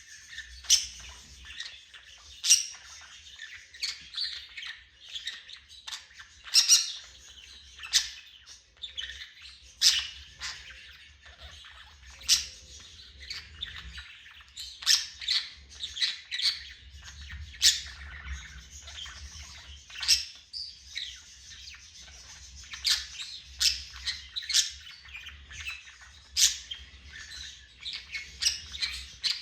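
Pet parrot chirping on its own: sharp, high calls every second or two, with softer chattering in between.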